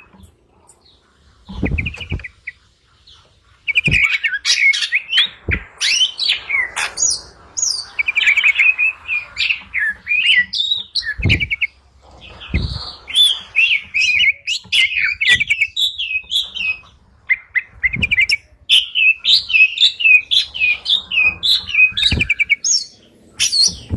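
Small songbird chattering: rapid runs of high chirps and trills in bursts, broken by short pauses.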